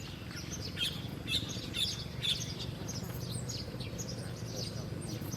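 Small birds chirping: many quick, high chirps, thickest in the first couple of seconds, over a steady low hum.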